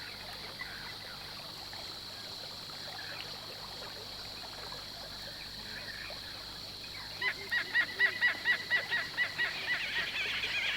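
A bird calling a fast run of harsh repeated notes, about four a second, starting about seven seconds in, over a steady high hiss.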